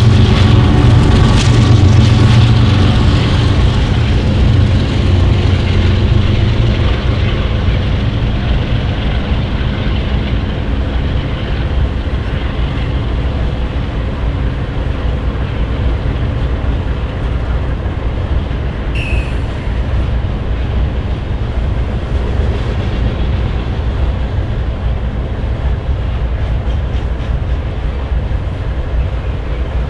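Loaded coal cars rolling steadily past on the adjacent track, over the low hum of idling GE diesel locomotives standing close by, which is strongest in the first few seconds. A short high wheel squeal sounds about two-thirds of the way through.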